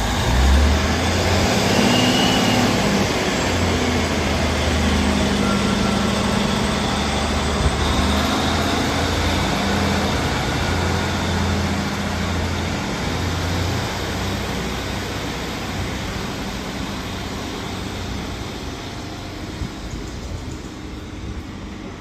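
Northern Class 156 diesel multiple unit pulling away, its Cummins diesel engines under power. The low engine note steps up and down through the first half, then the sound gradually fades as the train draws off.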